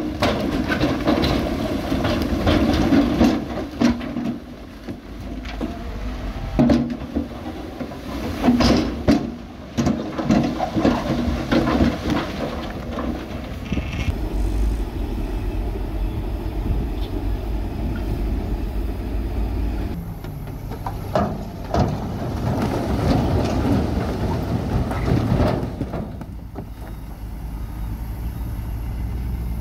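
Heavy earthmoving machinery running at a construction site, with a diesel engine rumbling. For about the first half there is a run of sharp clanks and knocks, as of metal and stone striking. After that the engine settles into a steadier deep rumble, with another busier stretch of knocks near the end.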